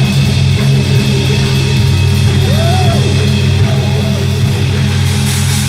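Live heavy rock band playing loud, distorted electric guitars and bass, holding a sustained low chord with some bending notes above it.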